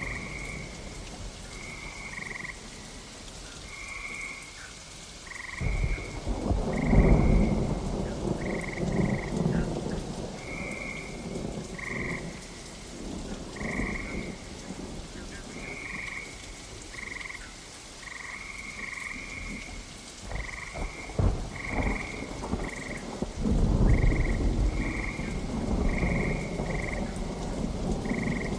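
Steady rain with several long, low rolls of thunder that swell and fade, over frogs croaking in short calls repeated every second or so.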